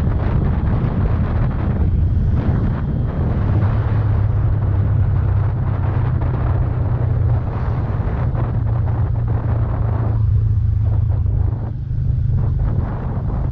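Bajaj Pulsar N160's single-cylinder engine running at a steady pace while riding, a low drone under heavy wind noise on the microphone.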